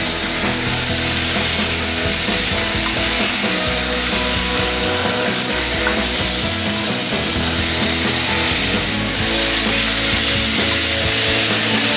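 Beef patties sizzling in a frying pan as a silicone spatula pushes and scrapes them, under steady background music.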